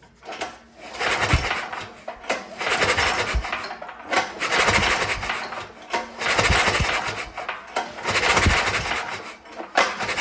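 Recoil starter pull cord of a Troy-Bilt generator's small engine pulled about six times in a row, each pull a rasping whir as the engine turns over. The spark plug is out, so the engine spins freely without binding after its valve adjustment.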